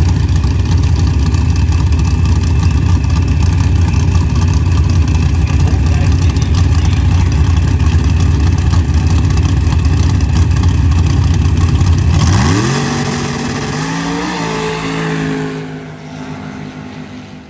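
Race vehicles' engines running hard at a sand drag strip. About twelve seconds in, the loud rumble drops away and a single engine is heard revving up in pitch, holding, then fading.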